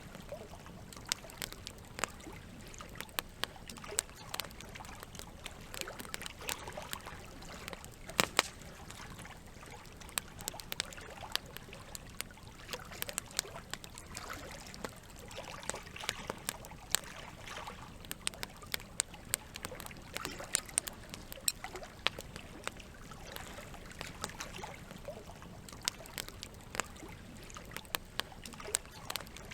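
Campfire crackling, with frequent sharp pops and snaps scattered irregularly, a pair of louder pops about eight seconds in, over a steady wash of trickling water.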